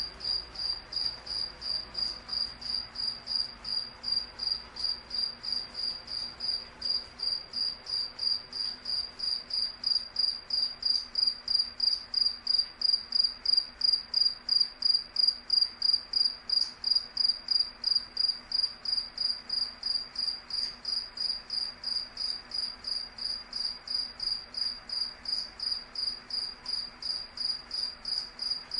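A cricket chirping steadily in an even rhythm, about two to three high-pitched chirps a second, a little louder in the middle stretch.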